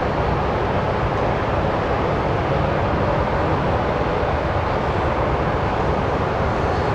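Steady, unbroken jet noise of a Boeing 777-300ER airliner, an even rushing sound with no change in level.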